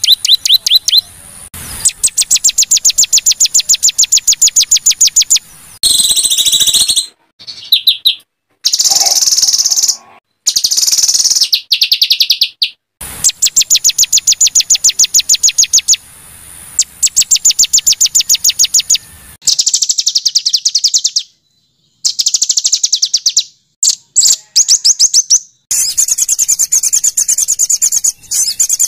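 Small songbirds singing harsh, rapid phrases of sharp repeated high notes, about ten a second, in bursts of a few seconds. The bursts are broken by sudden cuts: an edited masteran recording for teaching a white-rumped shama rough 'tembakan' song bursts.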